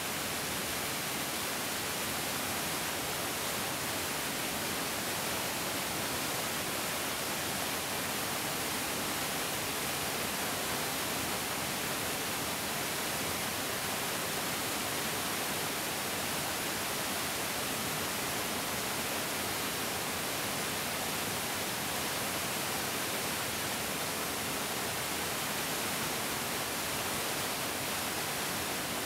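Mountain stream rushing steadily, a constant, even hiss of flowing water with no distinct splashes or changes.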